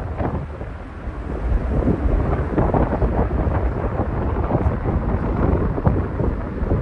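Low, steady rumble of F-35A jet engines overhead, with wind buffeting the microphone. The rumble dips about a second in, then holds.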